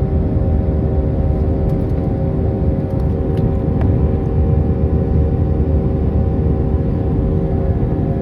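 Airbus A319 jet engines and airflow heard from inside the passenger cabin: a loud, steady low rumble with a droning hum of several held tones.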